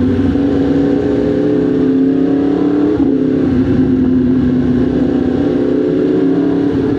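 Motorcycle engine running under way, its pitch rising slowly for about three seconds, then a brief break before it holds steady.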